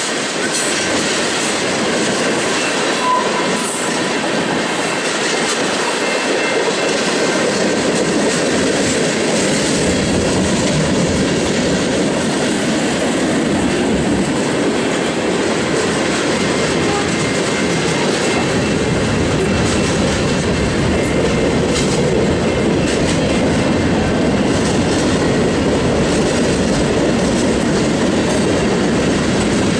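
Freight cars of a Norfolk Southern train, tank cars and covered hoppers, rolling past close by: a steady, loud rush of wheels on rail that grows deeper from about ten seconds in.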